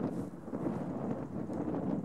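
Wind buffeting the microphone: a steady, fluttering rumble with no distinct events.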